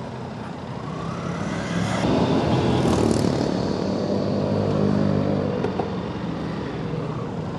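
Aprilia RS 457's parallel-twin engine running under way, rising in revs and getting louder about two seconds in, then holding steady and easing off slightly.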